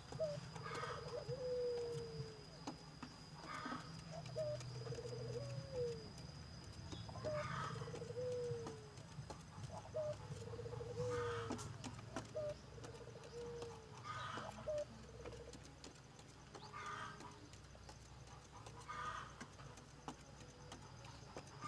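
Puter dove (a collared turtle dove) cooing: the same rolling coo repeated about eight times, each lasting about a second, with a pause of one to two seconds between calls.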